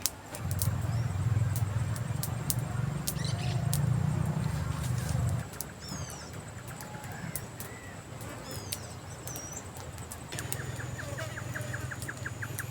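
Birds chirping over a steady high insect whine, with scattered sharp clicks. A low rumble comes in about half a second in, stops after about five seconds, and returns near the end. A fast run of ticks sounds near the end.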